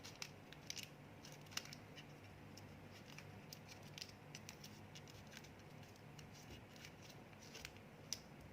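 Origami paper being folded and creased by hand: faint scattered crisp ticks and rustles of the paper, a few sharper ones standing out, over a low steady hum.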